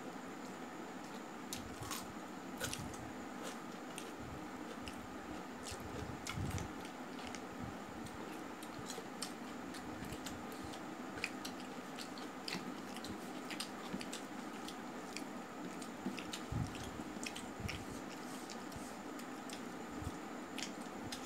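Close-up eating sounds: a man chewing rice and chicken curry with many small wet smacks and clicks, and his fingers squishing and mixing rice on a steel plate.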